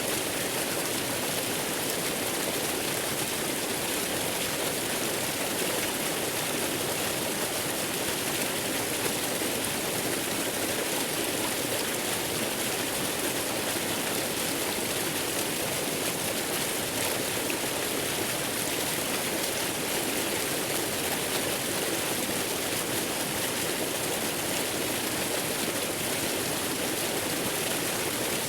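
Steady, unbroken rush of a waterfall blended with white noise, even and hissy with plenty of high end.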